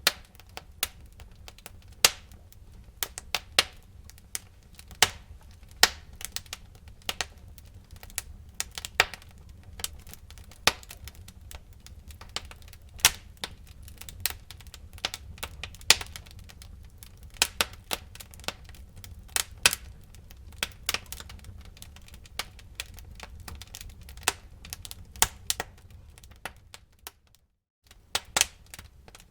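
Wood fire burning in a fireplace, crackling and popping irregularly over a low rumble of flame. The sound drops out for about a second near the end.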